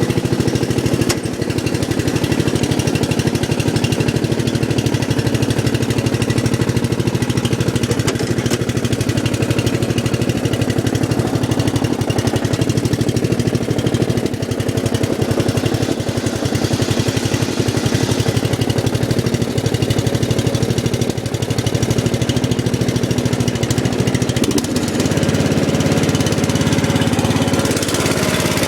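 Briggs & Stratton 12.5 hp single-cylinder engine of a riding lawn mower running steadily, shortly after a cold start. Its note changes near the end.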